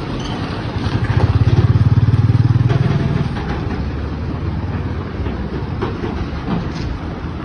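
Truck's diesel engine running under load, its low pulsing rumble swelling louder for about two seconds before settling back, with a few faint knocks and clatter.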